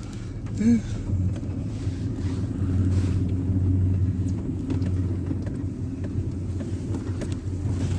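Low, steady rumble of a truck's engine and running gear heard from inside the cab as it rolls down a steep hill, towing another pickup on a chain. The rumble grows louder about a second in.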